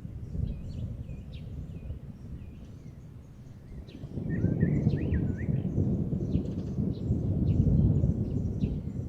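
Distant thunder rumbling low and continuously, swelling louder about four seconds in. Birds chirp over it with many short, quick calls, and one warbles briefly in the middle.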